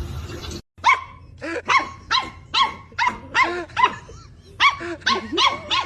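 A dog barking in a rapid string of short barks, about two a second. A steady hiss before it cuts off under a second in.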